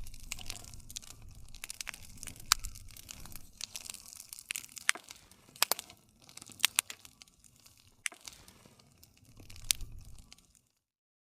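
Campfire crackling: irregular sharp pops and snaps of burning wood over a low, steady rumble of flame. It stops abruptly near the end.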